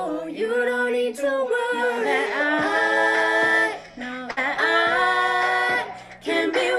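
Women's voices singing a cappella in close harmony, holding long chords with no instruments. A low bass part comes in about two and a half seconds in.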